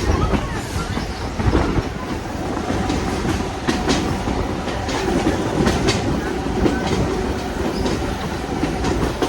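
Passenger railroad car rolling along the track: a steady rumble of wheels on rail, with sharp clicks now and then as the wheels pass over rail joints.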